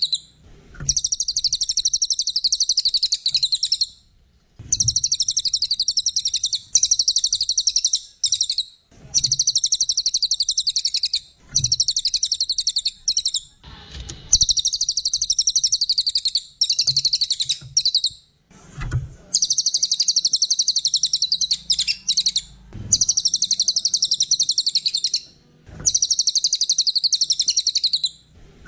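A songbird singing fast, high-pitched chattering trills in repeated phrases of a few seconds each, with brief pauses between them, about eight phrases in all.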